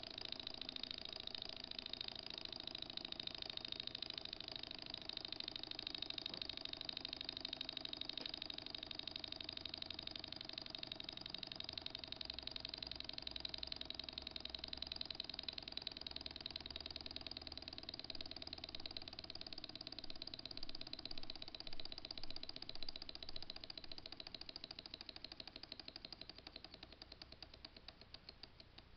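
Small model Stirling engine running fast on a candle flame, about 1000 rpm: a steady, rapid mechanical clatter of its moving parts. Over the last few seconds it grows quieter and the beats spread out as it slows.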